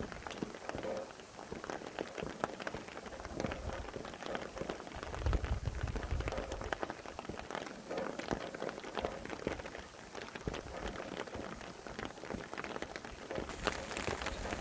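Steady rain with many close drops pattering on a surface, with low rumbling gusts of wind about five seconds in and again near the end.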